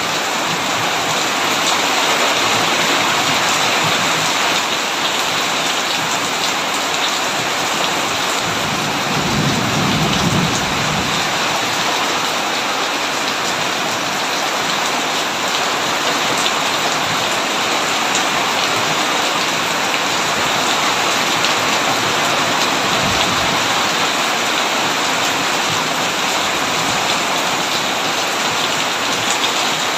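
Heavy, steady rain falling, with a low rumble of thunder swelling about eight seconds in for a few seconds and a shorter, fainter rumble a little past the middle.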